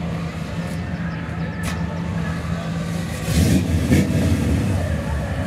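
Drag-racing Chevy II Nova's engine idling as the car rolls up to stage, then revved up hard about three seconds in.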